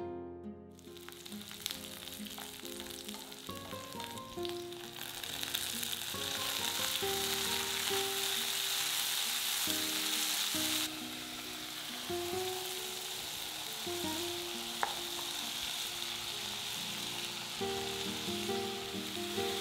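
Vegetables sizzling as they stir-fry in hot oil in a cast iron skillet, stirred with a wooden spatula; the sizzle starts about a second in, swells, and drops back a little about halfway through. Soft plucked-string background music plays underneath.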